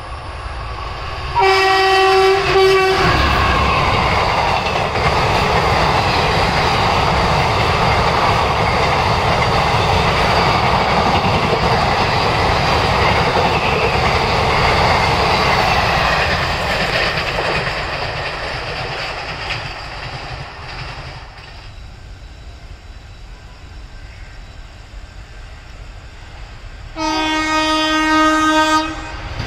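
A train horn blasts for about a second and a half, then a passenger train rushes past with clattering wheels on the rails for some fifteen seconds before the noise fades away. Near the end a second horn blast sounds from an approaching Indian Railways electric locomotive.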